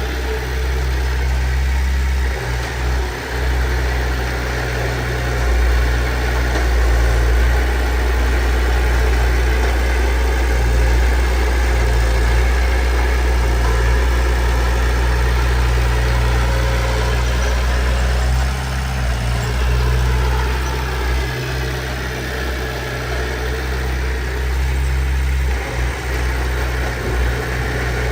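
Diesel engine of heavy earthmoving machinery running steadily with a deep hum, with a few brief dips in loudness around two to three seconds in and again in the second half.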